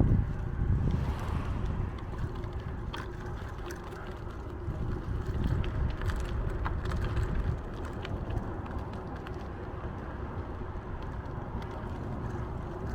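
Riding a bicycle: wind buffeting the microphone and a steady low road rumble from the tyres, with a few light clicks and rattles.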